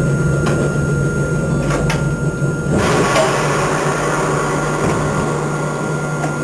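Hakone Tozan Railway train: a steady low hum with a few sharp clicks and knocks, then a rush of noise about three seconds in.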